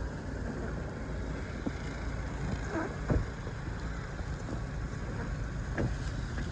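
A vehicle engine running steadily, a low rumble with wind on the microphone, broken by a few short knocks or scrapes about three seconds in and again near the end.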